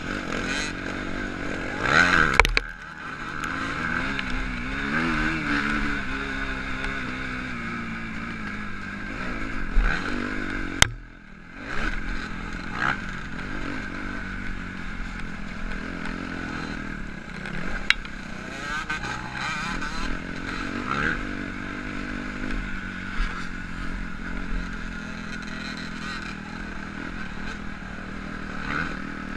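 Motocross dirt bike engine revving on the track, its pitch rising and falling again and again with the throttle. The sound drops out briefly about eleven seconds in.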